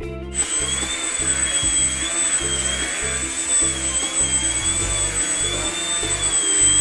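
Electric motor and propeller of a small indoor RC foam plane whining, starting about a third of a second in, its pitch wavering slightly with the throttle. Background guitar music plays underneath.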